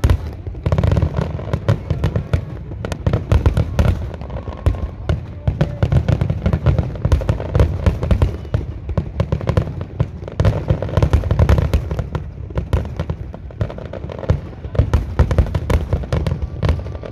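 Aerial fireworks going off in a dense, continuous barrage: many sharp bangs a second, overlapping, over a deep rumble.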